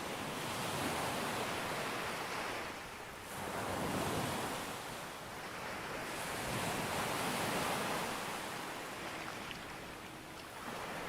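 Ocean waves breaking on a beach, the surf swelling and drawing back in about three slow surges.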